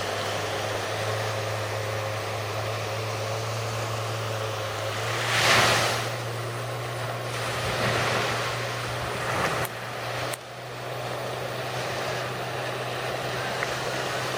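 A steady low engine drone under rushing noise like wind and waves, which swells loudest about five seconds in. Two sharp clicks come about ten seconds in, and the sound drops for a moment.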